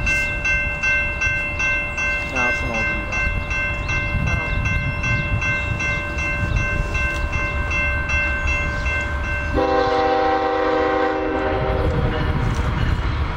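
Freight train rumbling past, with a bell ringing steadily for most of the time. About ten seconds in, a diesel locomotive's multi-chime air horn blows for about two seconds.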